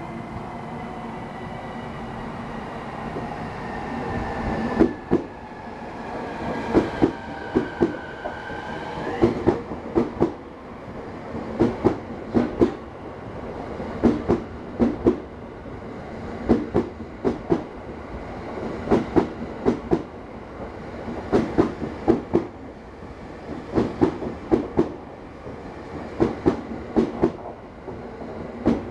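A JR commuter electric train in orange-and-green stripes running slowly along the platform. Its motors whine, falling in pitch over the first several seconds and rising briefly near nine seconds. From about five seconds in, groups of clicks come about every two and a half seconds as each car's wheels cross the rail joints.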